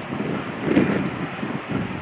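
Strong gusty wind buffeting the microphone, a rumbling rush that swells about a second in and again near the end.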